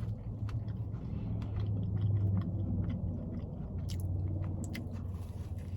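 A person chewing a mouthful of fried pie with a flaky crust, with many small wet mouth clicks. A low steady hum runs underneath.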